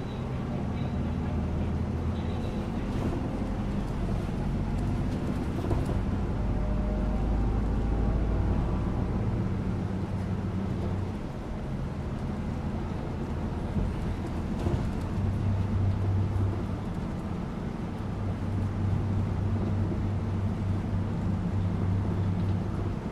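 The inside of a moving bus: a continuous low engine drone over road noise, the engine tone shifting in pitch and strength a few times as the bus changes speed.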